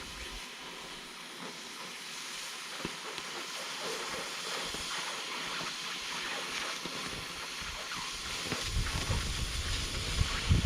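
A steady hissing noise, with low rumbling coming in near the end.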